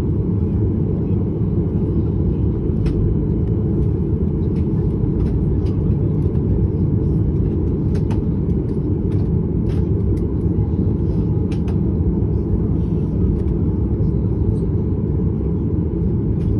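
Steady low rumble inside the cabin of a Boeing 737 with its engines running, before the takeoff roll. A few faint clicks occur here and there.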